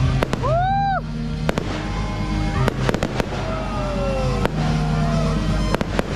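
Aerial fireworks shells bursting, with sharp bangs every second or so over music playing.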